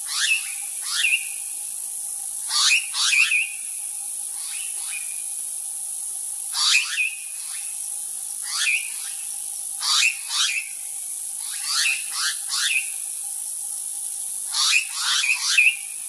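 Birds calling loudly and repeatedly: steeply falling notes in quick pairs and triples every second or two, over a constant high-pitched hiss and a faint steady tone.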